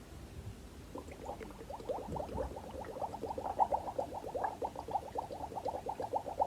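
Air being blown into soapy water to make a foam of bubbles: a rapid, even bubbling of about seven short pops a second, starting about a second in.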